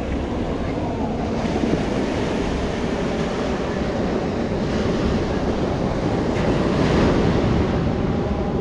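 Ocean surf breaking and washing up the beach, swelling about a second and a half in and again near seven seconds, with wind noise on the microphone.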